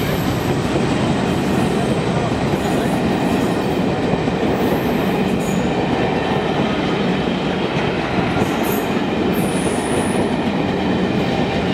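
Passenger coaches of a departing train rolling past, a steady rumble and rattle of wheels on rail, with a few brief high squeals in the second half.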